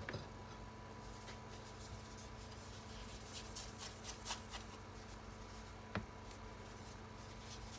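Light hand-craft work sounds: a sharp tap at the start and another about six seconds in, with a short run of faint scratching strokes in between, over a steady low hum.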